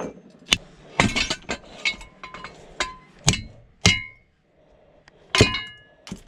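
Metal parts of an old sewing machine clanking and clinking as it is taken apart: a series of sharp knocks, several with a short metallic ring, and a brief pause about two-thirds of the way through.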